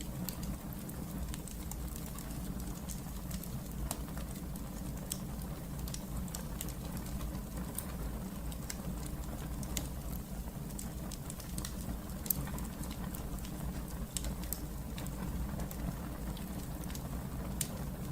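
Wood fire burning in a fireplace: scattered sharp crackles and pops over a steady low rush, with one louder pop about twelve seconds in.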